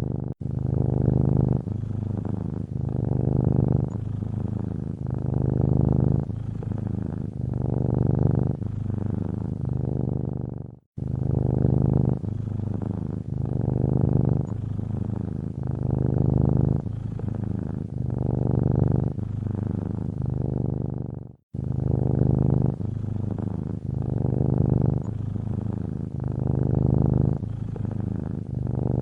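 Domestic cat purring steadily, swelling and easing with each breath in a slow rhythm. The sound cuts out abruptly twice for a moment, about a third and two thirds of the way through.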